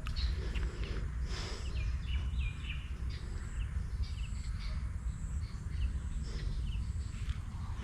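A small bird chirping outdoors: short high chirps repeating about once every second, over a steady low rumble of open-air noise.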